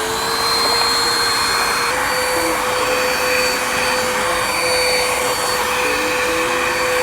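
Vacuum cleaner running steadily over grass: a constant motor whine over the rush of suction air. The pitch steps up slightly about two seconds in.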